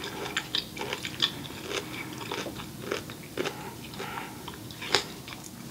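A person chewing a mouthful of broccoli close to the microphone, with irregular wet crunches and mouth clicks, the sharpest one about five seconds in.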